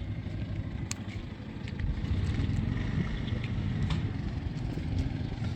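An engine running steadily with a low rumble and scattered light clatter, getting louder about two seconds in.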